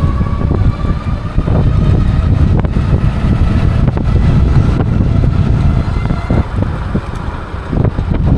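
Loud wind buffeting the microphone, with the thin whine of an e-bike's electric hub motor beneath it, slowly rising in pitch as the bike gathers speed.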